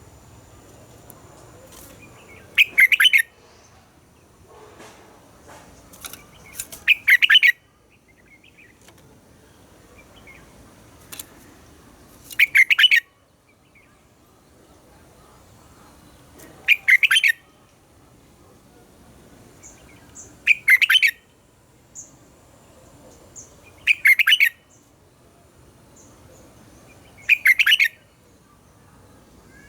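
Red-whiskered bulbul singing short, loud song phrases, seven of them, one every four seconds or so, with faint quiet gaps between.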